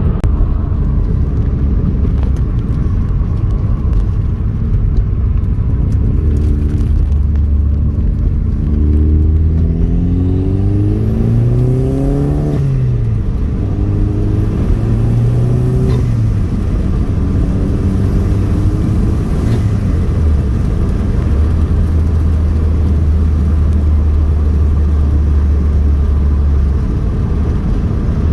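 Chevrolet Cobalt SS turbocharged four-cylinder engine heard from inside the car, pulling through the gears. Its pitch rises steadily for a few seconds about a third of the way in, then drops at a shift. Two shorter pulls follow, each with a faint high turbo whistle climbing over it, before the engine settles into a steady drone while cruising.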